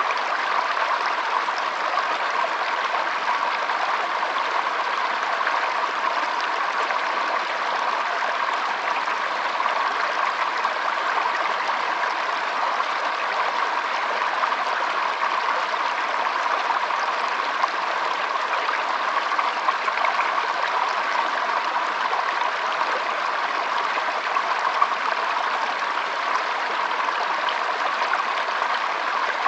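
A stream running steadily, an even babble of flowing water with no pauses.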